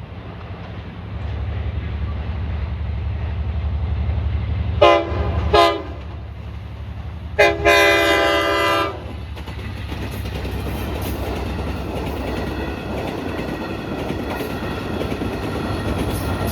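LIRR diesel locomotive of Train 44 (units 517 and 504) running with a steady low engine rumble, sounding its horn twice briefly and then once for about a second and a half. After that the train passes, with a rising rushing noise of wheels on rails.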